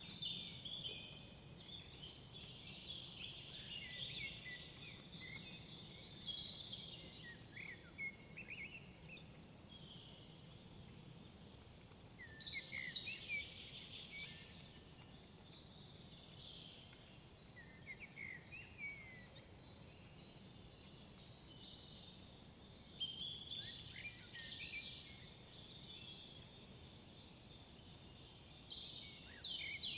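Woodland songbirds singing, with song phrases of a few seconds recurring about every five to six seconds, several ending in a fast high trill, over a faint steady low rumble.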